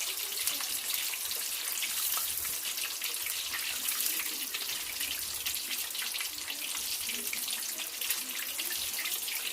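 Floured chicken breasts deep-frying in hot oil in a pot: a steady sizzle of dense, fine crackling.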